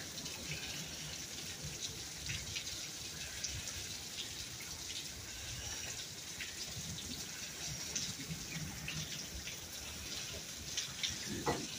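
Steady rain falling, with many small drips and splashes of water, and a few louder bumps near the end.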